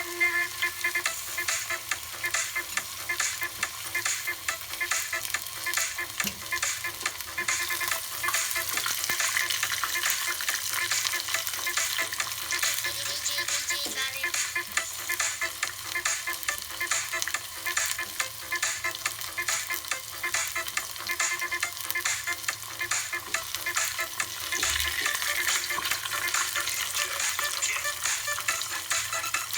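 Food frying in hot oil: a steady sizzle with a dense crackle throughout.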